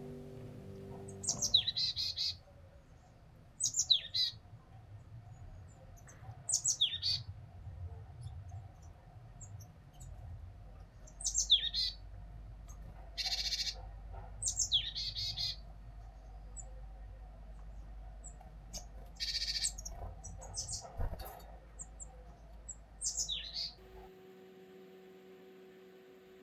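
Small songbirds, tits visiting a feeder, giving short chirps every few seconds, each sliding down in pitch, with a couple of brief raspy buzzing calls in between.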